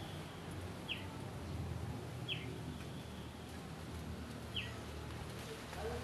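A small bird giving three short, high chirps that sweep downward, spaced a second or two apart, over a low background rumble.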